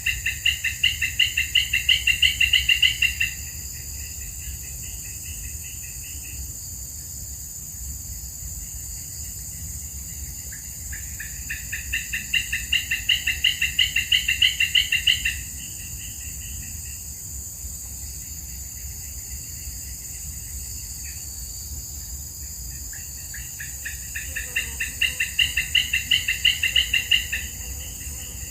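A bird calling in three bouts of rapid repeated notes, each bout about three to four seconds long and getting louder as it goes. Under it runs a steady, high-pitched insect drone.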